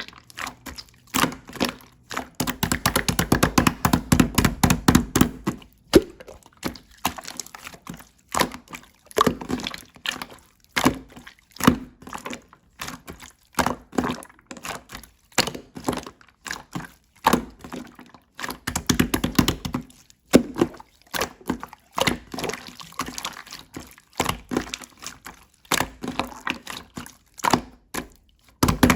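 Slime being squeezed, folded and poked by hand: a string of sticky, wet clicks and pops. There are two runs of dense, fast clicking, one about two and a half seconds in and another near the twenty-second mark.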